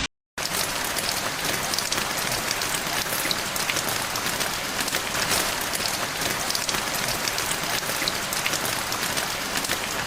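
Steady rain falling: a dense, even hiss flecked with many small ticks of individual drops, coming in after a brief moment of silence at the start.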